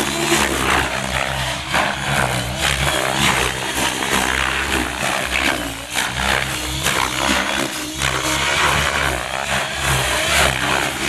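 Large electric RC helicopter (Gaui X7) flying 3D aerobatics at high head speed: a steady rotor and motor whine with loud blade noise, its pitch gliding up and down as the pilot throws the model around.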